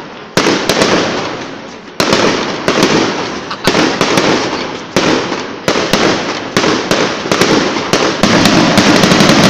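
Aerial fireworks shells bursting overhead: a string of loud bangs, one or two a second, each trailing off in a rolling rumble, closing in a rapid volley of bangs near the end.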